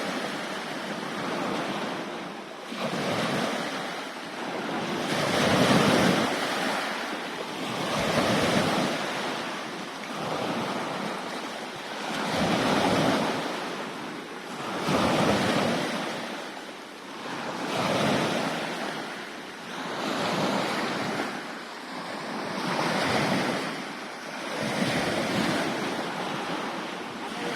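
Sea waves washing in, the water noise swelling and fading about every two and a half seconds, with wind buffeting the microphone.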